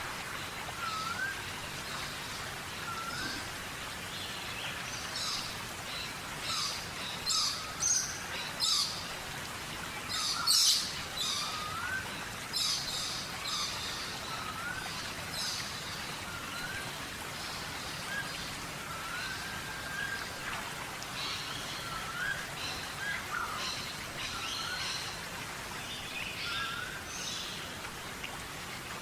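Birds calling: a short rising note repeated every second or two, mixed with bursts of high, quick chirps that peak about ten seconds in, over a steady hiss.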